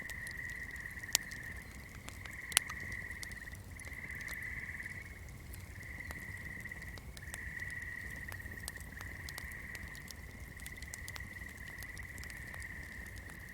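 Swamp chorus: a steady high-pitched trilling that breaks off and resumes every second or two, over a low rumble. Scattered soft crackles from a burning candle, with two sharp pops about one and two and a half seconds in.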